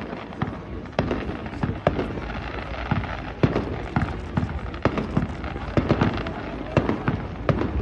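Fireworks going off: a dense, irregular string of sharp bangs and cracks, several a second, over a steady low rumble.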